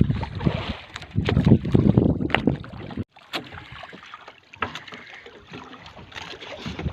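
Wind buffeting the microphone in gusts on a small boat at sea. The rumble cuts off suddenly about three seconds in, leaving quieter wind and water noise with scattered knocks and clicks.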